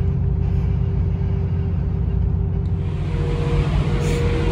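Steady low rumble of a passenger train coach rolling along, heard from inside the car. A little under three seconds in the sound changes and a steady hum comes in.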